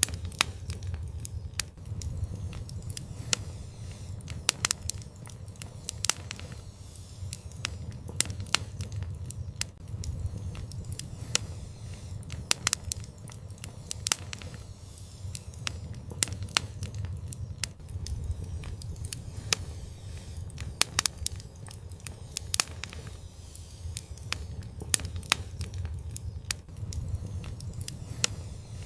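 Wood fire crackling, with sharp, irregular pops scattered through it over a low rumble.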